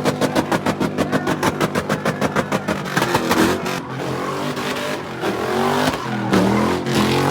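A fast, even string of loud pops, about eight a second, runs for the first three seconds or so. Then car engines rev up and down over the rest.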